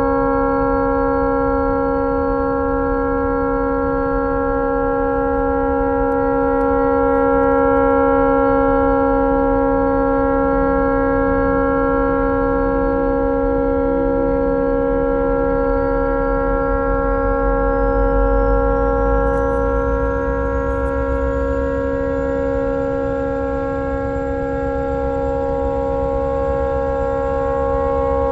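A tugboat's horn stuck on, sounding one continuous, unbroken blast of several steady tones together: the horn has malfunctioned and cannot be shut off.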